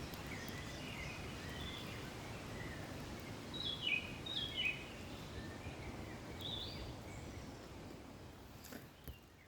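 Forest songbirds chirping and calling over a steady low background rumble, with two quick descending chirp phrases about four seconds in. The sound fades out toward the end.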